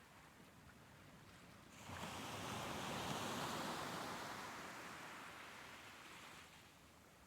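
Soft ocean waves. About two seconds in, a single wave surges in with a rush of surf, then slowly washes back out and fades.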